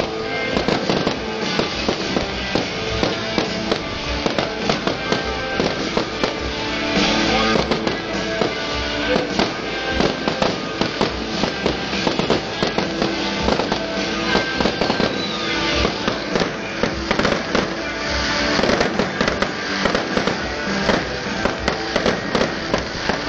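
Fireworks display going off in quick succession, a continuous run of bangs and crackles, with music playing underneath.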